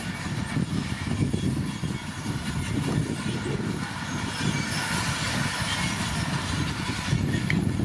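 Komatsu D41P crawler bulldozer working: its diesel engine runs steadily under load while the steel tracks clank and squeal.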